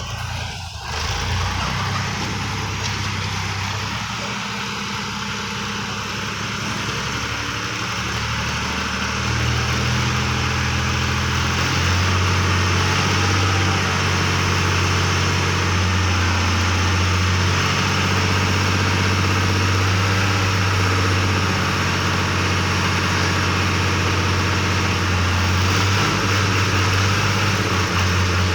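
Massey Ferguson 385 tractor's diesel engine running with a soil-loaded trolley behind it. The engine note rises and gets louder about ten seconds in, then holds steady.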